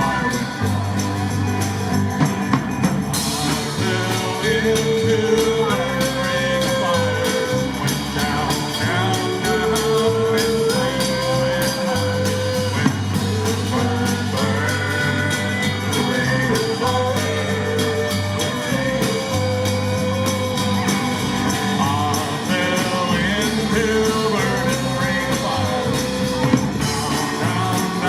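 A live rock band playing a song with a sung melody over a bass line that steps between notes, and steady drum beats.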